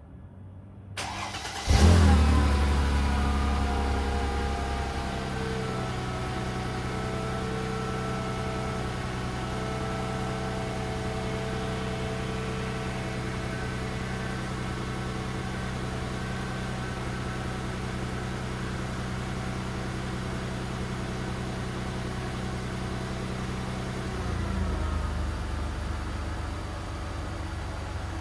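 2001 Mercedes-Benz ML320's 3.2-litre V6 cold-starting after sitting two to three days: a brief crank, then it catches with a rev flare and settles into a steady fast cold idle. Near the end the note turns deeper and rougher.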